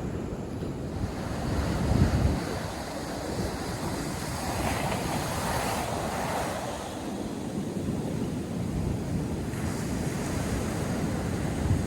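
North Sea surf breaking and washing on a sandy beach, a steady rush of waves, with wind buffeting the microphone in low rumbles, strongest in the first two seconds.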